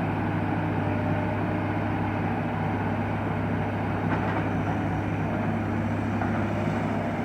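Heavy diesel machinery, such as an excavator, running steadily with a constant low engine hum.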